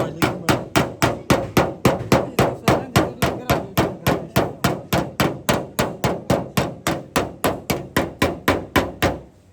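Hammer beating out damaged car body sheet metal with steady, evenly spaced blows, about three a second. The blows stop just before the end.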